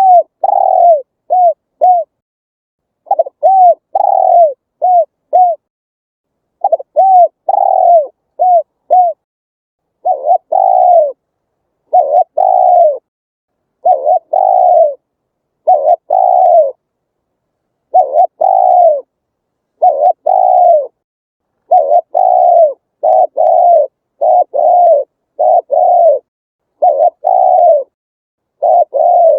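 Spotted dove cooing. It gives phrases of four or five short, arching coos with pauses between them, then from about ten seconds in a steadier run of longer coos, roughly one a second.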